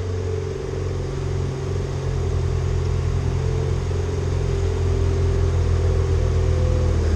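Ford Fiesta ST's EcoBoost turbo engine idling steadily just after a cold start, a low hum that grows slightly louder.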